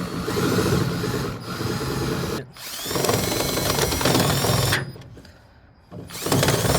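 Electric drill boring through metal, running in spurts: it stops briefly about two and a half seconds in, runs again, then drops away near five seconds and starts again about a second later. The bit is opening half-inch holes out toward three-quarter inch.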